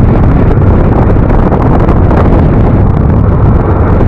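Wind buffeting the microphone of a riding scooter: a loud, steady low rumble with the engine and road noise underneath.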